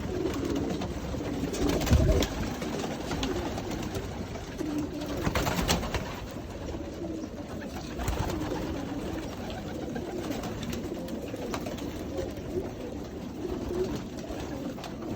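A loft full of young racing pigeons cooing continuously, with a few sharp knocks and clicks, the loudest about two seconds in.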